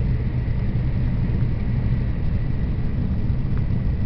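Steady low rumble of a Tokaido Shinkansen Nozomi train running, heard inside the passenger car.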